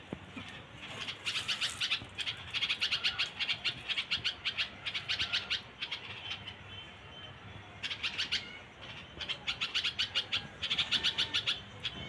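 Young songbirds calling in rapid trains of chirps, about eight to ten a second, in several bouts of one to three seconds with short pauses between.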